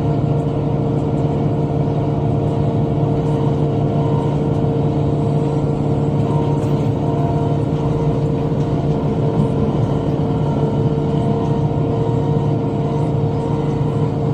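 Tractor engine running at a steady speed, driving a rotary cutter (bush hog) as it mows.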